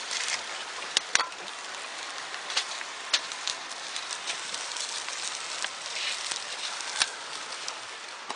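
Wood bonfire crackling with a steady hiss, and sharp pops now and then: two about a second in, one near three seconds and one near seven seconds.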